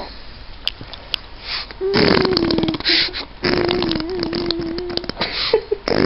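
A baby blowing raspberries, buzzing her lips to make fart noises. After a couple of quieter seconds she makes two long buzzes, then a few shorter ones near the end.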